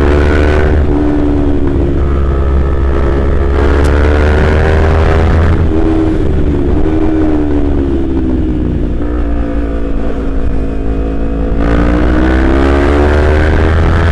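Kawasaki Z250 parallel-twin engine running through a Prospeed aftermarket exhaust while being ridden, over a steady low rumble. The engine note wavers, drops lower about nine seconds in, then climbs again after about twelve seconds as the revs rise.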